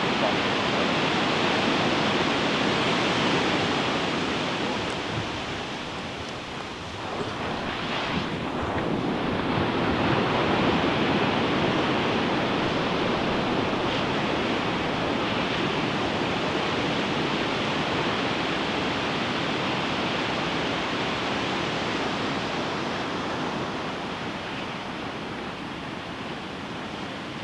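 Ocean surf breaking on a beach: a continuous wash of waves that eases about six seconds in, then swells again as the next wave breaks.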